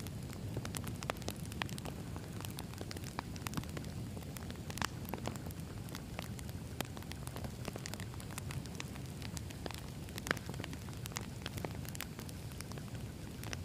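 Campfire of burning wood logs: a steady low hiss of the flames with frequent irregular sharp crackles and pops.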